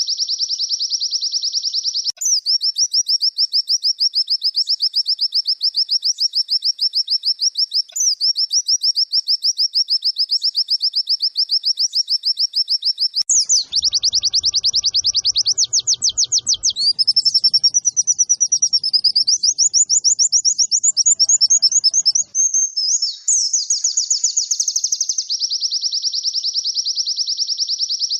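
White-eye (pleci) song: an unbroken, very rapid trill of high notes that runs on without pause. About halfway through the phrasing changes to faster, wavering notes that swing higher.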